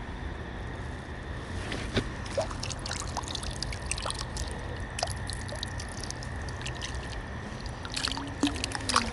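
Water dripping and trickling in scattered splashes, starting about a second and a half in and busiest near the end, as a yabby net is drawn up out of the dam.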